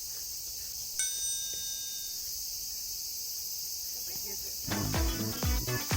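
Steady high-pitched insect chirring, typical of crickets. About a second in comes a single bell-like chime that rings out over about a second, and near the end music with a strong beat starts.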